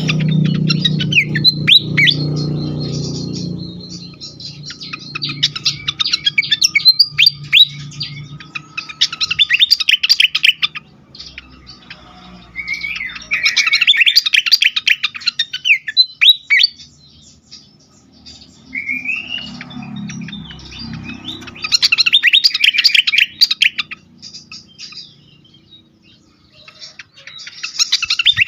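Fantail flycatcher (sikatan kipas) singing in agitated, rapid chattering bursts of high chirps. Each phrase lasts a few seconds, with short pauses between, in the bird's excited 'ngamuk' song. A low hum lies under the first few seconds and comes back about twenty seconds in.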